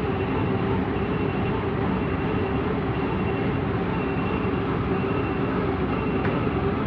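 Heavy diesel machinery running steadily, with a faint high beep repeating at an even pace.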